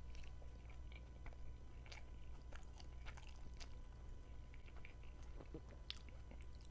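A person chewing a mouthful of macaroni pasta close to a lapel mic, with scattered small mouth clicks.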